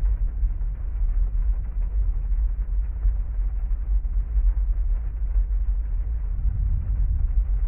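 Heavy rain heard muffled from inside a parked car: a steady, low rumbling wash of noise with no separate drops or claps standing out.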